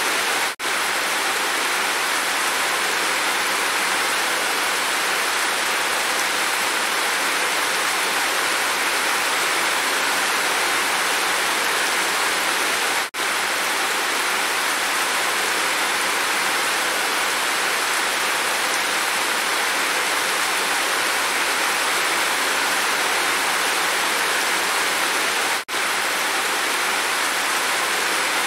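Steady heavy rain, an even hiss with no let-up, broken by three momentary dropouts about twelve seconds apart.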